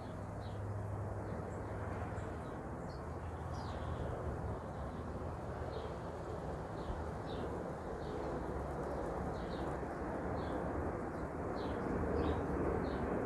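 Small songbirds giving short, high chirps over and over, against a steady low background rumble.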